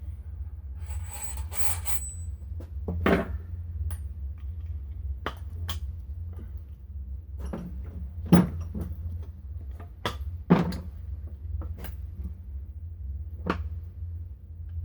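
Metal motorcycle fork parts being handled: a scatter of sharp knocks and clicks, four of them louder than the rest, over a steady low hum.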